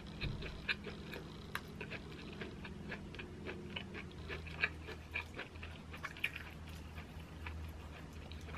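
Close-miked chewing of a mouthful of sweet corn and melted mozzarella with the mouth closed: soft, irregular wet clicks and smacks.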